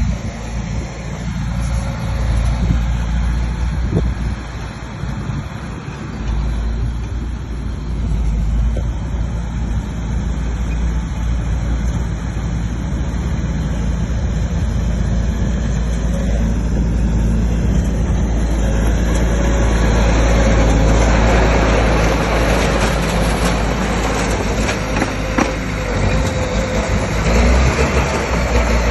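Heavy diesel engine of an earthmoving machine, most likely the bulldozer, running steadily. About two-thirds of the way in it grows louder and harsher, as under heavier load.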